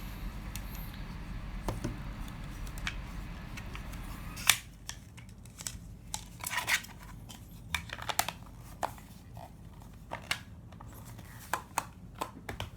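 Freshly sharpened S30V steel knife blade slicing through paper in an edge cut test: a series of short, irregular slicing strokes starting about four seconds in, quiet and muted, with no hang-ups on the edge.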